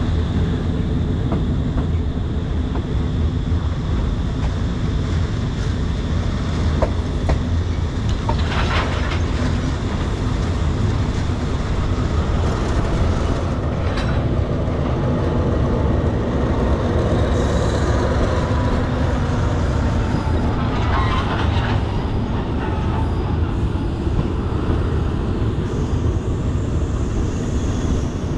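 Thai northern-line passenger train running on the rails: a steady low rumble with a few sharp clicks from the wheels, and a faint thin squeal in the middle.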